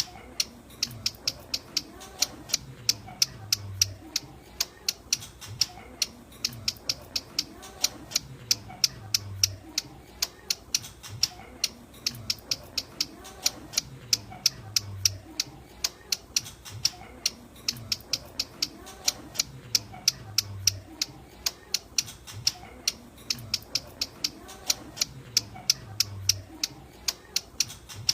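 Hill prinia (ciblek gunung) call: a rapid, even series of sharp high chips, about three a second, repeating in a loop. This is a lure call used for bird trapping.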